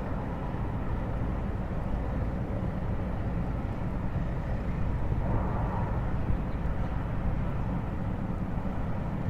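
Steady low outdoor rumble, with a brief swell of a hiss about five seconds in.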